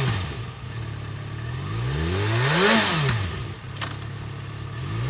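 2012 Yamaha FZ-6R's 600cc inline-four engine idling, settling back from a rev at the start, then blipped once, rising and falling back to idle about two to three seconds in.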